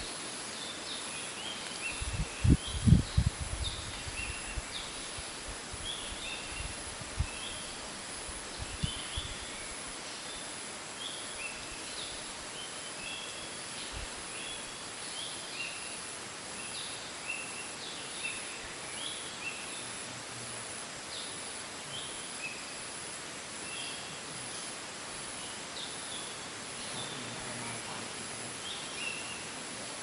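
Outdoor ambience of small birds chirping: many short, high, falling notes repeated throughout over a steady hiss. A few low thumps, the loudest sounds, come about two to three seconds in, with lighter ones later.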